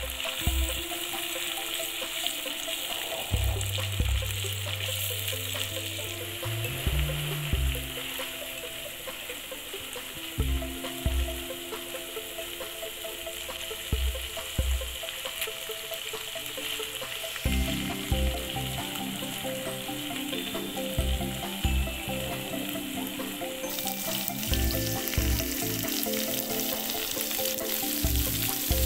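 Ground chilli and belacan paste with shallots and prawns sizzling as they fry in oil in a pan, stirred with a spatula. Soft background music with a regular low beat runs underneath.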